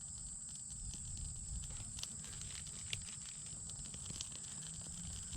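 A small campfire just lit with birch bark and dead wood, catching with a few sparse crackles, over a steady high-pitched drone of insects.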